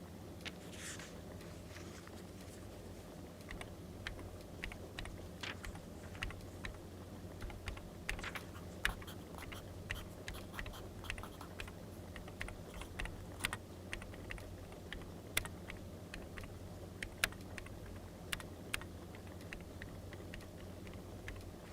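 Firewood fire crackling: irregular sharp pops and clicks, a few per second, over a steady low background hum.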